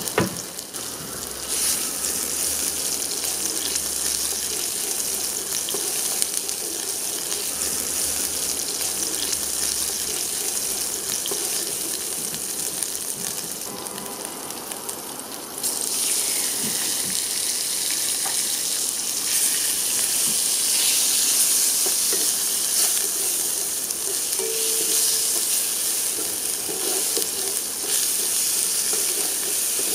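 Shrimp-paste and chilli spice paste sizzling in hot oil in a nonstick pan. About halfway through the sizzle jumps louder and stays loud as chicken and prawns go in, and a wooden spatula stirs them through the pan.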